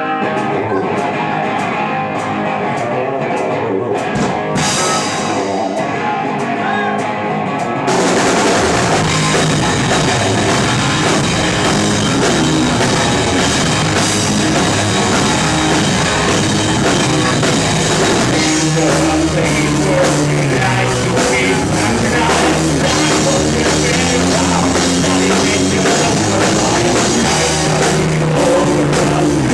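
Live rock band playing a song. The opening is sparser with a steady beat, and about eight seconds in the full band comes in louder with drum kit and guitars.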